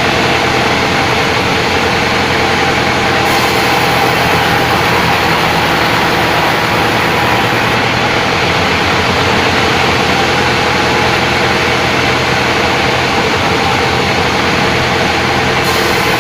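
Sawmill machinery running with a loud, steady mechanical drone.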